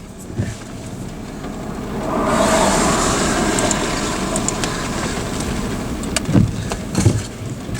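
Steady rushing noise of a vehicle that grows louder about two seconds in, with a few light clicks and two dull thumps near the end.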